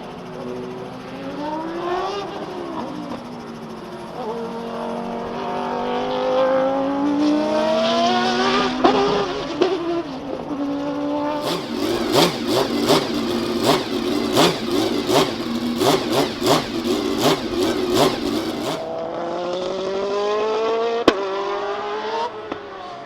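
Racing sports car engines passing at speed, their pitch rising and falling as they accelerate and go by. In the middle comes a louder stretch of about seven seconds with a rapid run of sharp cracks, about three a second.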